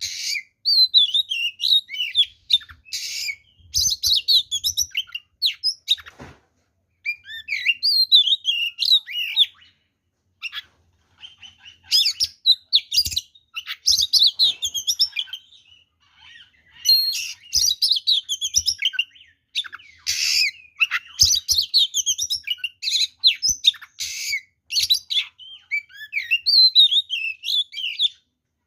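Oriental magpie-robin (kacer) singing loudly in aggressive, fighting-mode song: rapid, varied whistles, trills and chattering phrases in bursts separated by short pauses.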